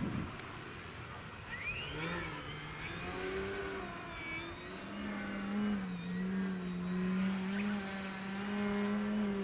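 Radio-controlled model airplane in flight: its motor and propeller drone at a steady pitch that rises about two seconds in and then shifts up and down with the throttle.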